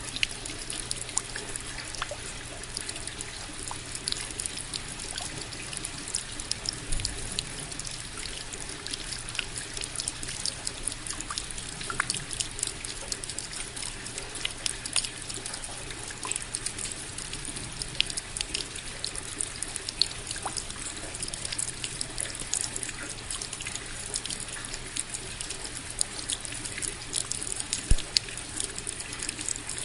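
Steady rain with many separate drops ticking close by and water trickling, the sound even throughout.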